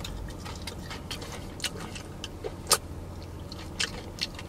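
Close-up chewing of crispy fried chicken: scattered sharp crunches and wet mouth clicks, the loudest a little under three seconds in, over a steady low hum of a car cabin.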